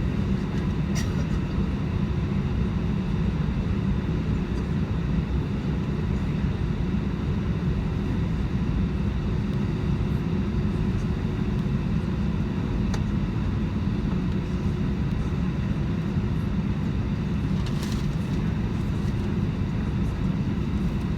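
Steady low rumble inside a jet airliner's cabin, the engines and air system running at an even level with a faint steady hum. A few light clicks come through about a second in, in the middle and near the end.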